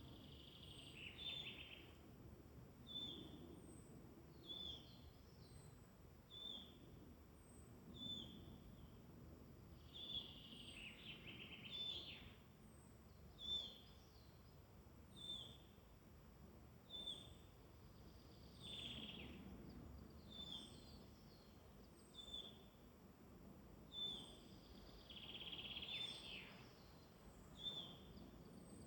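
Faint woodland birdsong: one bird repeats a short, high call about every one and a half to two seconds, while a longer, falling song phrase comes in four times. A faint low rumble lies underneath.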